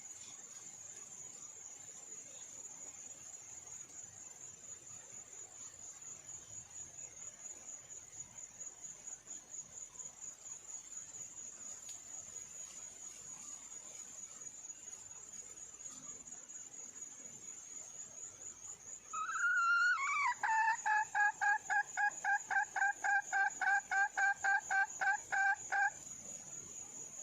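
A red junglefowl hen calls: a short note and then a rapid, even run of clucks, about six a second, lasting some six seconds, starting a little past the middle. A steady, high, pulsing insect trill runs underneath throughout.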